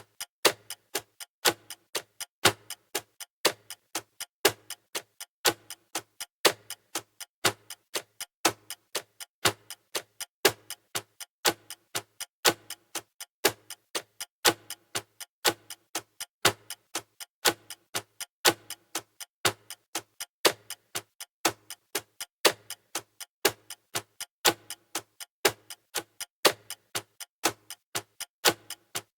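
Countdown timer's clock-style ticking sound effect: steady, evenly spaced ticks, a louder one about once a second with softer ticks between.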